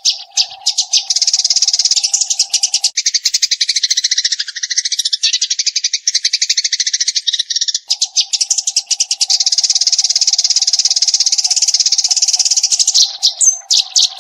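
Eurasian tree sparrow chirping in a fast, continuous, high-pitched chatter, breaking into a few separate chirps near the end.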